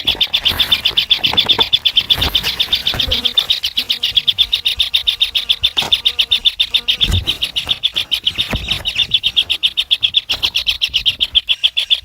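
Kingfisher chicks begging for food: a steady run of high, fast-pulsed calls, several pulses a second, with a few low thumps.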